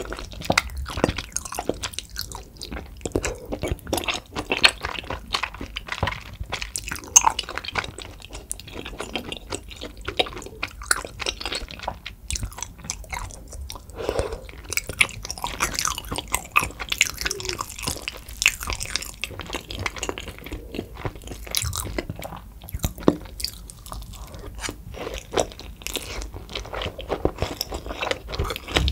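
Close-miked chewing and biting of soupy tteokbokki, with many quick mouth clicks throughout.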